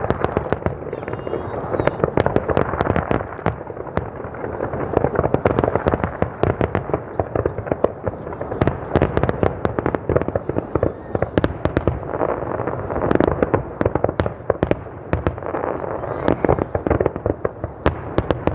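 Fireworks display in a rapid, continuous barrage: many loud bursts every second over a steady rumble, with crackling reports in between.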